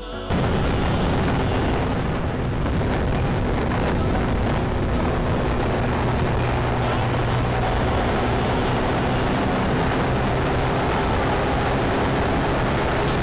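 Yamaha Tricity 155 scooter's single-cylinder engine running at road speed, mostly covered by heavy wind noise on the microphone. It starts abruptly just after the start and stays steady throughout.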